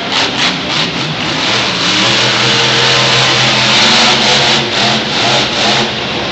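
Back Draft monster truck's engine running hard and revving loudly. It holds a steady high pitch through the middle and dips briefly near the end.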